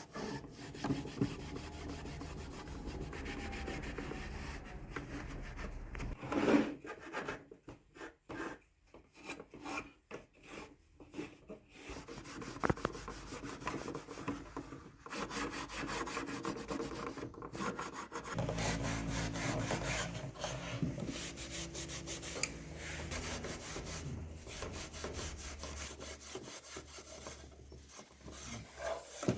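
Pine wood being rubbed and scraped by hand with an abrasive tool in repeated strokes, with a stretch of shorter, choppier strokes with brief pauses about a third of the way through.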